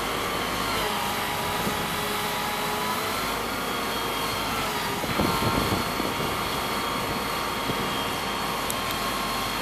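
Liebherr R932 tunnel excavator running, a steady machine hum with a high whine, swelling briefly about five seconds in.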